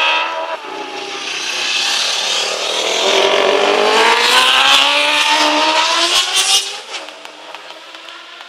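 A racing motorcycle engine going past under hard throttle, its pitch shifting as it swells to a peak about halfway through and then fades off.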